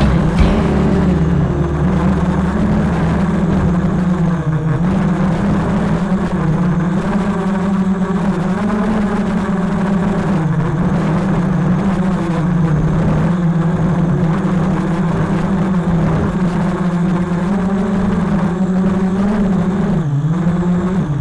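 FPV quadcopter's brushless motors and propellers whining steadily, the pitch wavering up and down as the throttle changes.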